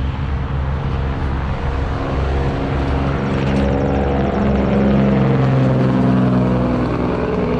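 A large engine running steadily, growing louder partway through and easing off near the end, like a heavy vehicle passing close by.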